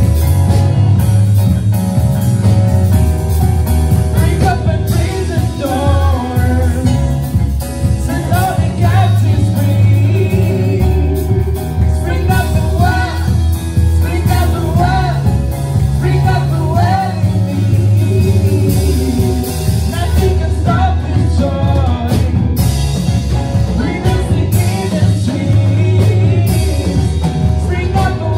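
Worship band music with a singing voice over sustained bass notes, drums and guitar.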